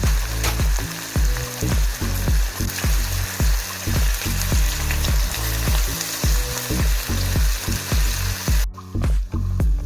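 Food frying in a hot pan with a steady sizzle that cuts off abruptly near the end, over background music with a steady beat.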